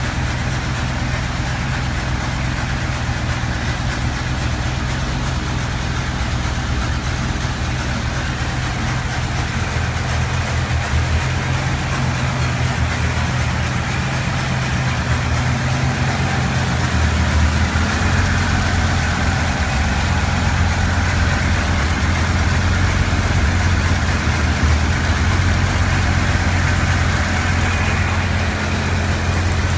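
A hot-rodded early Ford roadster's engine idling steadily. About halfway through, its low note shifts a little deeper and grows slightly louder.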